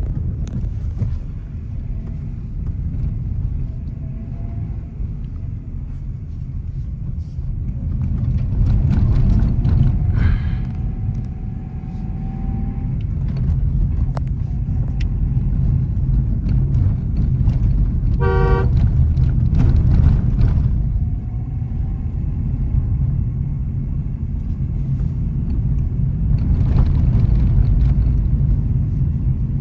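Nissan Magnite on the move: a steady low rumble of engine and road noise, with a single short car-horn toot about eighteen seconds in.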